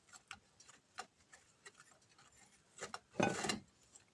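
Faint clicks and taps of a table knife against a plate as butter is spread on a tortilla, with one louder scrape about three seconds in.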